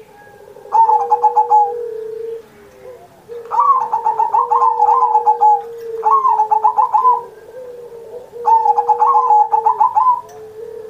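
Zebra dove (perkutut) singing: four phrases of rapid staccato cooing notes, each a second or two long, with short pauses between them, over a steady low hum.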